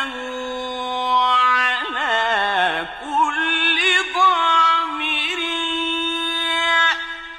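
Quran recitation in the slow, melodic mujawwad style by a male reciter: a single voice holding long notes with wavering melismatic turns, including a long descending run about two seconds in, and a short pause near the end.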